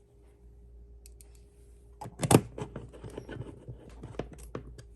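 Small clicks and taps of screws and a screwdriver being handled as a module is screwed onto a tablet enclosure, with one louder knock about two seconds in.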